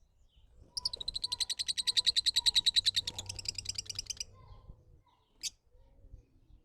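A bird's rapid, even trill of high notes, about ten a second, lasting about three and a half seconds. A single sharp click follows.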